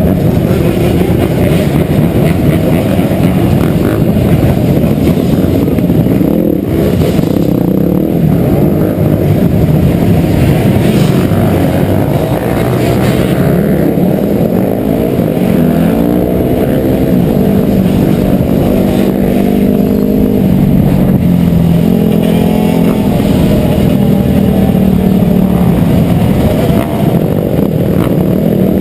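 Dirt bike engine running loudly while riding, its pitch rising and falling over and over as the throttle is opened and eased off.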